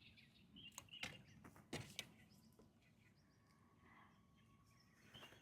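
Near silence with faint outdoor ambience: a few soft bird chirps and a couple of brief small clicks.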